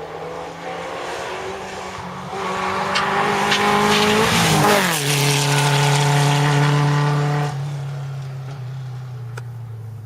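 Historic rally car passing at speed. The engine note grows louder as the car approaches, drops in pitch as it goes by about four and a half seconds in, then holds steady and fades as the car drives away.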